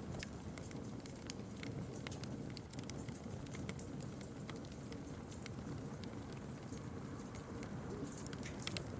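Campfire burning, with a steady low rush of flames and many sharp, irregular crackles and pops from the burning wood.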